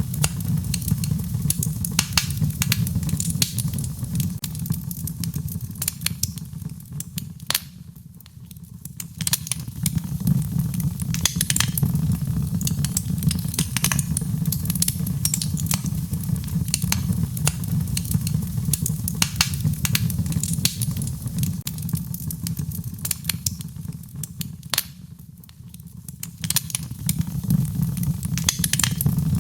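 Wood fire crackling and popping in a fireplace: many sharp, irregular pops over a steady low rush of rain. The crackles thin out briefly twice.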